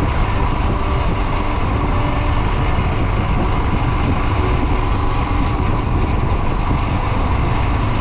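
Royal Enfield Himalayan 411's air-cooled single-cylinder engine running steadily under way, with road and wind rumble, mixed with background music.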